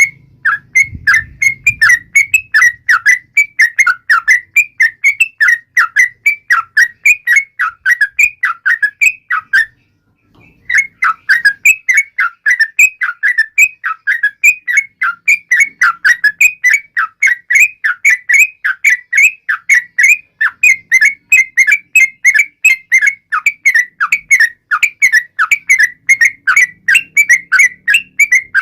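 Yellow-vented bulbul (trucukan) singing a rapid, even string of short whistled notes, about three a second, with a brief break about ten seconds in.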